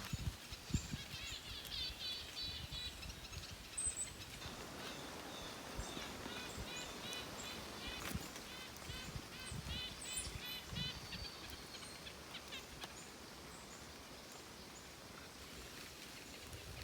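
Wild turkeys calling unseen in the woods: two bouts of quick repeated high notes, one early and a longer one in the middle, over faint outdoor background.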